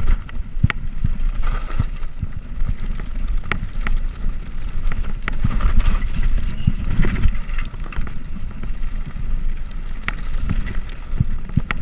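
Bicycle ride noise: a steady low rumble of wind on the microphone and rolling tyres, with scattered sharp clicks and knocks.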